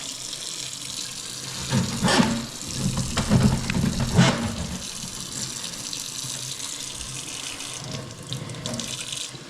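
Kitchen faucet running water into a sink, a steady splashing hiss, with louder irregular splashes for a couple of seconds near the middle.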